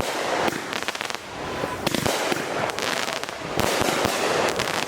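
Consumer fireworks going off in quick succession: dense crackling and sharp pops, easing briefly about two seconds in before a fresh volley builds.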